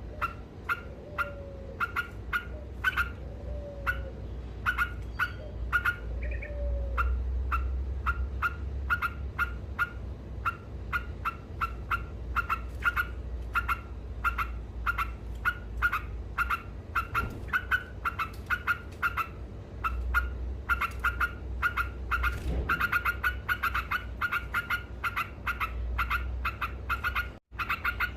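Yellow-vented bulbul (trucuk) calling in a fast, unbroken run of short repeated notes, a few a second, growing denser near the end. The calling cuts out for an instant near the end.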